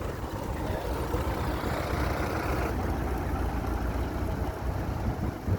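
Heavy diesel road-building machinery running steadily, a continuous low engine rumble from subgrade preparation work.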